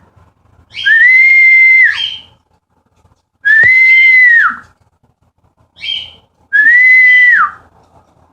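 A person whistling a cockatiel flock call three times: each a loud, level note about a second long that drops off at the end. Short, higher cockatiel calls answer around the whistles, one on its own about six seconds in.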